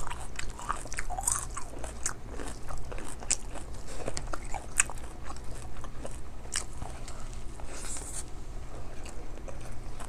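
Close-miked chewing and mouth sounds of a person eating a rice meal by hand: irregular wet clicks, smacks and soft crunches.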